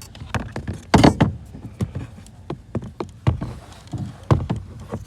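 Irregular knocks, taps and clicks of hand work on a car's steering column. The loudest is a cluster of knocks about a second in.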